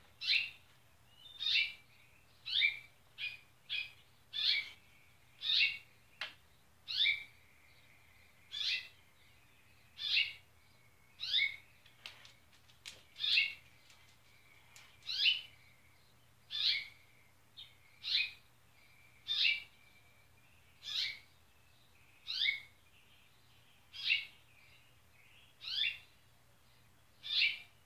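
A bird calling one short, downslurred note over and over, about once every second and a half.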